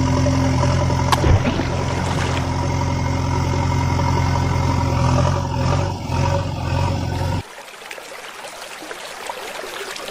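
Cartoon vehicle engine sound effect running steadily at idle, cutting off abruptly about seven seconds in and leaving a quieter hiss.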